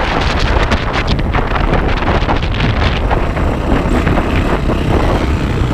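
Yamaha YZ450F single-cylinder four-stroke dirt bike engine running under way, heavily buffeted by wind on the action camera's microphone.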